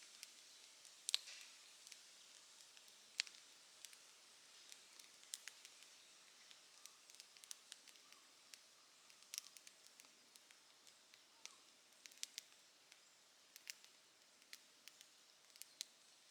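Campfire crackling: irregular sharp pops and snaps, a couple of louder ones about a second and three seconds in, over a faint steady hiss of the flames.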